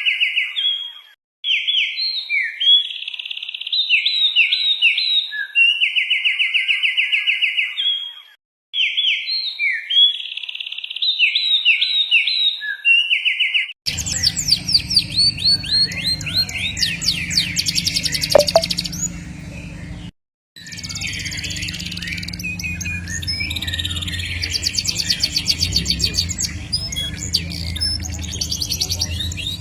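Recorded songbird song for training caged birds: for the first half a clean repeating phrase of fast buzzy trills and short whistled notes, then it cuts abruptly to a different recording of dense, high trilling over a low hum, with a brief break about two-thirds of the way through.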